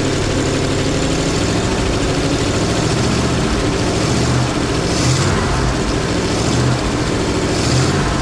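1955 GMC 100's V8 engine running steadily, with a few brief swells in engine note about halfway through and near the end.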